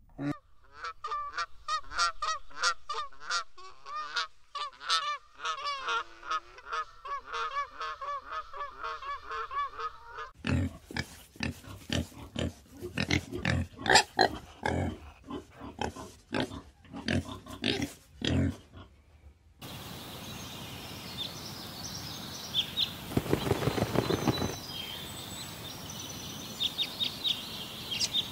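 About ten seconds of rapid, pitched, warbling animal calls from an unidentified animal. Then pigs grunt loudly and repeatedly for about nine seconds. After that comes a steady outdoor background with small high chirps.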